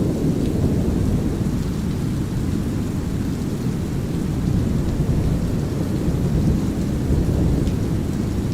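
Thunderstorm ambience: a steady, deep rumble of brown noise and rolling thunder, with a lighter hiss of drizzle on top. There is no sharp thunderclap, only an even, continuous rumble.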